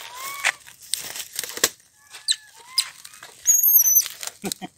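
Birds calling: repeated short whistled chirps and, about three and a half seconds in, a loud high wavering whistle held for about half a second, among scattered clicks and rustles.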